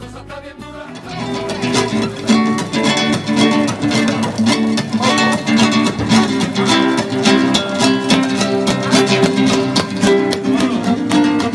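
Acoustic guitar strummed and plucked in a fast, rhythmic flamenco-style accompaniment. It comes in louder about a second in.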